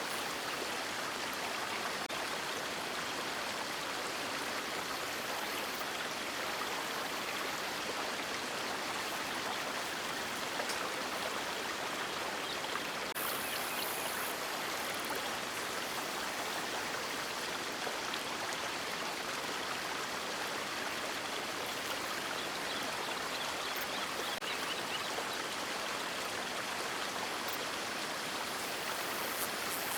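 River water flowing over rocks in a steady, even rush, with no birdsong.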